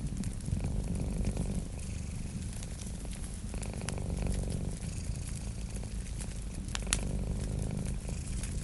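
A cat purring in slow, swelling breaths, over the crackle and small pops of a wood fire, with one sharper pop near the end.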